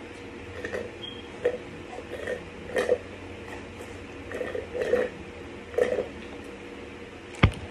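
Close-up chewing and mouth noises of someone eating, in short irregular bursts every half second to a second, with one sharp knock near the end.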